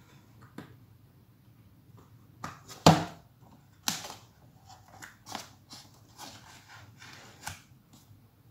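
Small clicks and knocks of a cable connector being handled and plugged onto a circuit board, with the sharpest knock about three seconds in and a scatter of lighter clicks after it.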